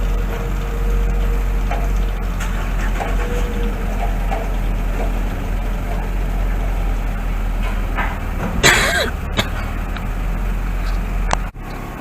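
Steady low engine rumble on the river vehicle ferry crossing, with scattered light knocks and a short louder rush of noise about three quarters of the way through.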